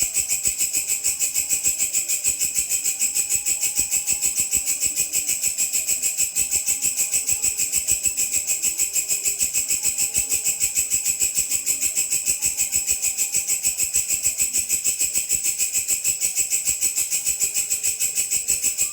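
Grasshopper stridulating: a continuous high-pitched, rapidly pulsing song at about seven pulses a second.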